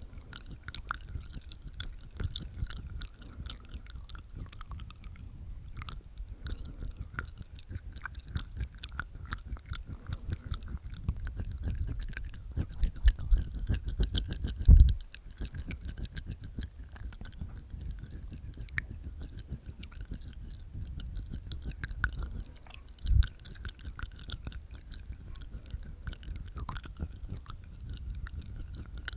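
Close-miked ASMR mouth sounds made inside the mouth: wet tongue clicks and teeth sounds in a dense, rapid stream. There are two louder, deeper thuds, about halfway through and again about two-thirds of the way in.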